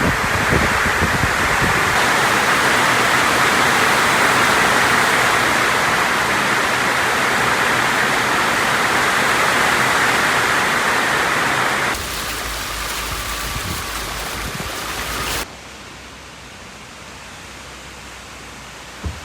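Heavy downpour of rain, a loud steady hiss. The sound changes abruptly about twelve seconds in and drops to a quieter hiss a few seconds later, with one short knock near the end.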